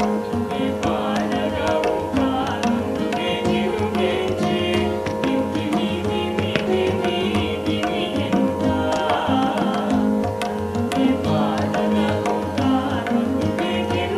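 Live band of flute, guitar, drum kit and tabla playing an instrumental passage of a Kannada devotional song in Carnatic style, the tabla and drums keeping a steady beat under sustained notes and ornamented melodic phrases.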